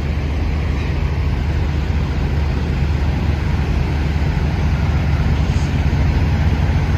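Heavy truck's diesel engine running steadily: a constant low rumble that stays at one pitch.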